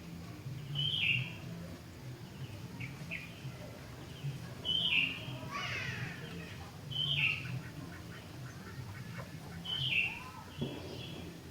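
Sooty-headed bulbul (kutilang) singing: four loud, short, chirpy phrases about every three seconds, with softer chirps between them, over a steady low background hum.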